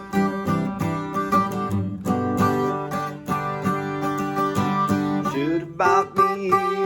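Acoustic guitar strummed in a blues-country groove. About five seconds in, a wavering, sliding melody line joins over the strumming.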